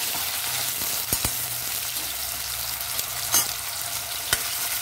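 Cubed potatoes sizzling steadily in hot oil in a stainless steel kadhai as they fry until lightly cooked. A few sharp clicks come from the metal slotted spoon striking and scraping the pan as the potatoes are stirred.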